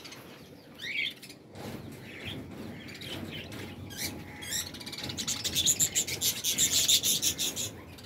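Many small caged birds chirping, scattered calls at first, then a dense burst of rapid high chirping from about five seconds in that lasts nearly three seconds.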